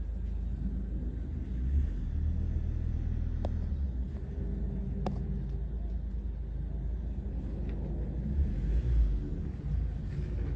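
Distant, steady low rumble of an Airbus A380's four jet engines as the airliner passes high overhead. The rumble swells briefly about two seconds in and again near the end, and there are two sharp clicks in between.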